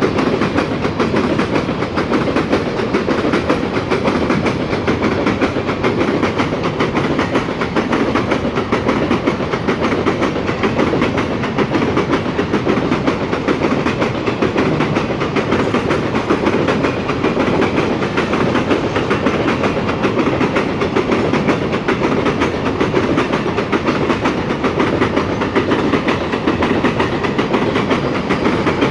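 Freight train wagons rolling steadily past, steel wheels rumbling and clicking over the rail joints.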